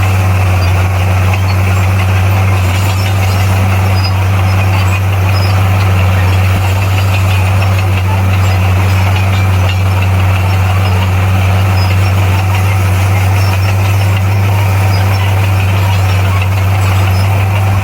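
Heavy diesel engine of a bulldozer running steadily at a constant speed, with a strong, even low hum.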